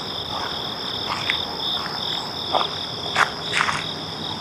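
Steady outdoor insect chorus, a continuous high-pitched trilling on two pitches. A few short, sharp sounds break over it, the loudest about three seconds in.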